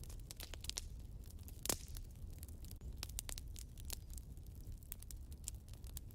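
Wood fire burning in a fireplace: irregular crackles and snaps over a steady low rumble, with one louder pop a little under two seconds in.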